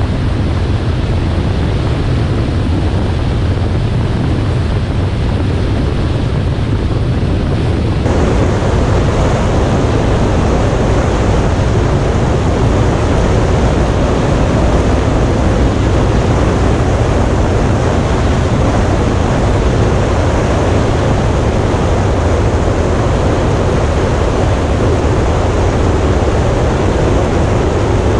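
Motorcycle riding at speed: engine noise under heavy wind rush on the microphone. It grows louder about eight seconds in.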